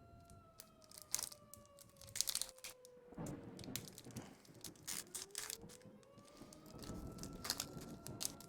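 Foil booster-pack wrapper crinkling and crackling as it is handled and torn open, in many short crackles. Behind it, a faint tone slides slowly down and then back up.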